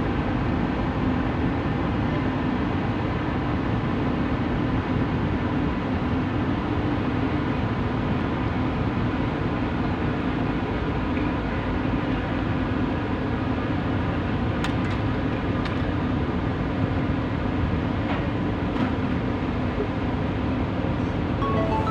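Tugboat's diesel engine running steadily: a constant, even drone with a strong low hum.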